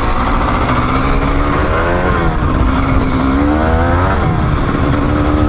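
Dirt bike engine running while riding, its pitch rising and falling gently as the revs change, over a heavy low rumble.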